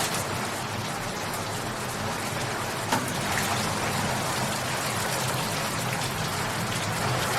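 Steady rain falling and pattering on a surface, with one sharp tap about three seconds in.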